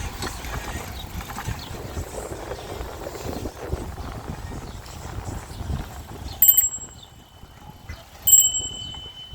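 Bicycle bell rung twice, a bright ding about six and a half seconds in and a louder one near the end, each ringing on briefly, over steady wind and road rumble on the microphone.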